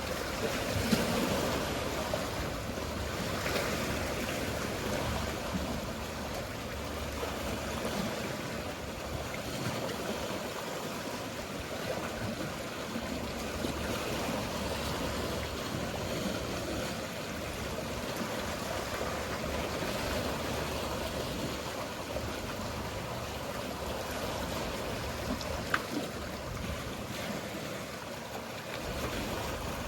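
Sea waves washing and lapping in slow swells, over a steady low hum of distant boats. A single sharp click about 26 seconds in.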